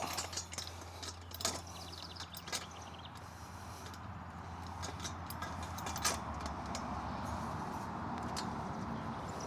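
Metal parts of a non-penetrating roof mount clinking and knocking as they are handled and lined up, over a steady low background hum.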